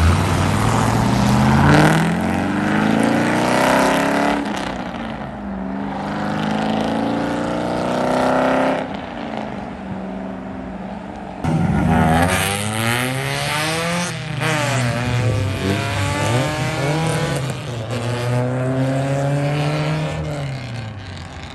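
Car engines revving hard and accelerating away one after another. The pitch climbs and drops back several times as they go through the gears, and a louder car starts up about eleven seconds in.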